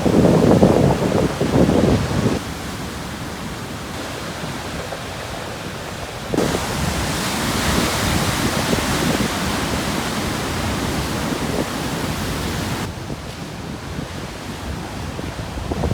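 Atlantic surf breaking on a rocky shore at high tide: heavy low rumbling for the first two seconds, then a quieter wash. About six seconds in, a wave breaks with a sudden loud hiss of foaming water that lasts some six seconds and then drops away abruptly.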